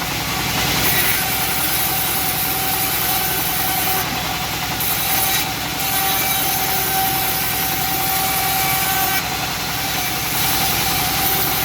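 Homemade bandsaw mill running steadily: a continuous mechanical drone with a steady mid-pitched tone and a high hiss.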